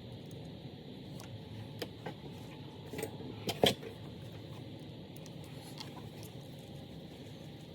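Small carburetor parts being handled on a workbench: a few light clicks and knocks, the loudest about three and a half seconds in, over a steady low hum.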